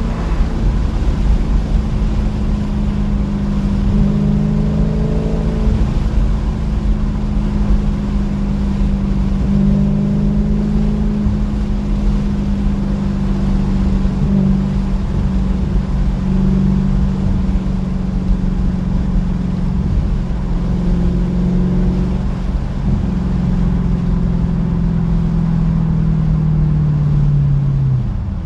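Muffler-deleted Dodge Challenger V8 exhaust running at fairly steady revs, its pitch holding for several seconds at a time with small steps up and down, and sagging near the end.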